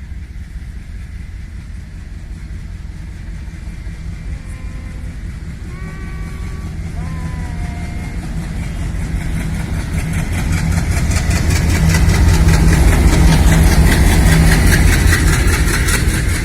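Boat Mail Express train running through the station. A locomotive's low engine drone grows steadily louder, then a fast, dense clatter of coach wheels on the rails takes over, loudest about three-quarters of the way in.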